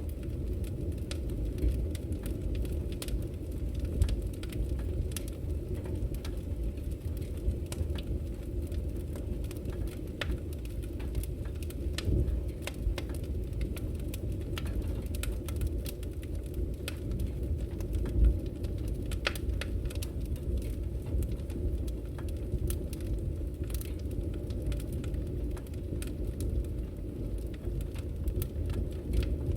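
Firewood burning in a fireplace, crackling with many small snaps and an occasional louder pop over a steady low rumble of the flames.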